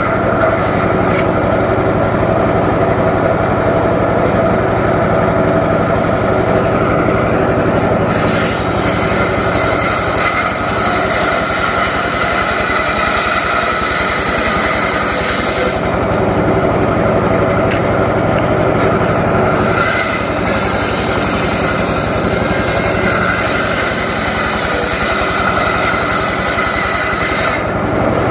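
Engine-driven saw running steadily for timber cutting, its engine note constant while the higher sound comes and goes several times as the work load changes.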